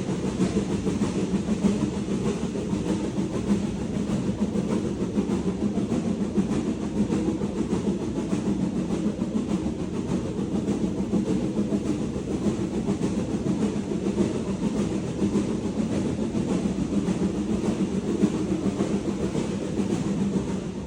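Steam-hauled passenger train on the move, behind BR Standard Class 4 tank engine 80151: a steady rumble and clatter of wheels on the rails that goes on unbroken.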